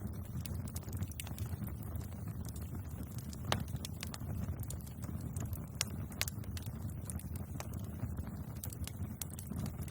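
Bonfire crackling: irregular sharp pops and snaps from burning wood over a steady low rumble of the flames, with one louder pop about three and a half seconds in.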